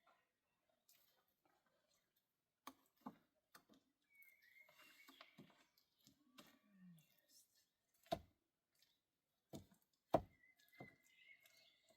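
A handful of dull knocks and thuds at irregular intervals. The two loudest come about 8 and 10 seconds in, with faint rustling and scraping between them.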